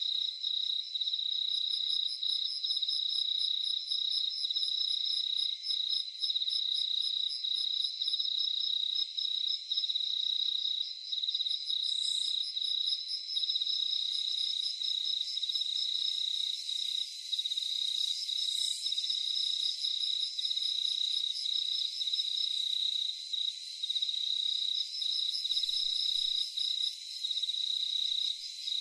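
Crickets chirring at night: a steady, unbroken high trill with a second, faster pulsing chorus layered over it. A brief, higher chirp cuts in about twelve seconds in and again about six seconds later.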